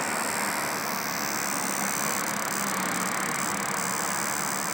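Cicada buzzing: a steady, high-pitched whine that holds unbroken.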